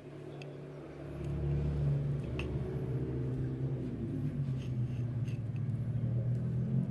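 Diesel engine running steadily, a low even hum that gets louder about a second in and then holds, with a few faint clicks over it.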